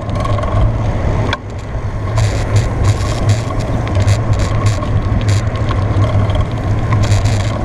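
Steady low drone and rushing noise of a moving bicycle ride, with frequent light rattles from about two seconds in.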